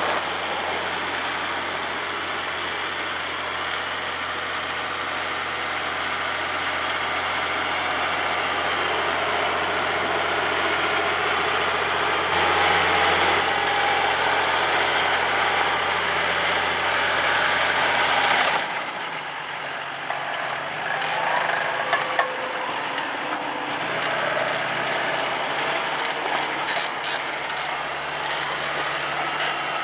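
John Deere 6150R tractor's six-cylinder diesel engine running steadily. About two-thirds of the way through, the sound changes suddenly to a quieter, thinner engine sound with a few sharp clicks.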